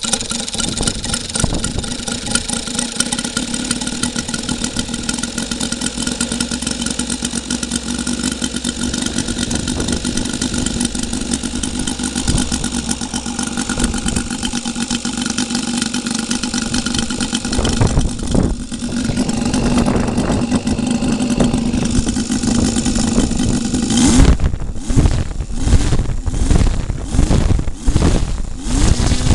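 Saito FA-200R3 three-cylinder four-stroke radial model-aircraft engine, converted to spark ignition and burning methanol, running on a test bench and turning a propeller. It holds a steady speed for most of the time and gets louder after about 18 seconds. In the last five seconds it surges up and down in quick repeated blips of the throttle.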